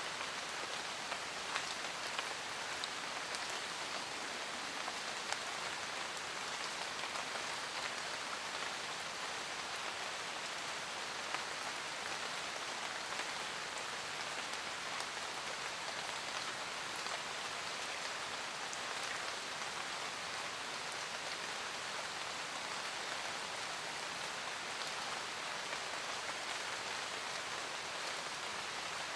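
Steady rain pattering on a camper van roof, with scattered single drops standing out as sharp ticks.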